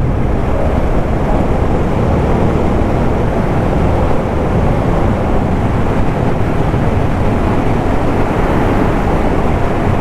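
Suzuki motorcycle running at a steady cruising speed, its engine drone mixed with wind and road noise.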